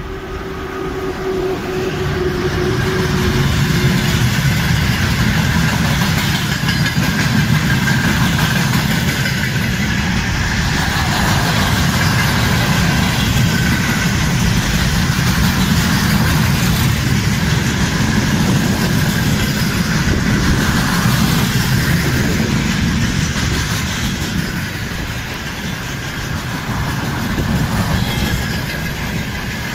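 Freight train of tank cars hauled by a VL10U electric locomotive passing at speed. There is a steady loud rumble of steel wheels on the rails, building over the first few seconds as the locomotive goes by, then holding as the wagons roll past.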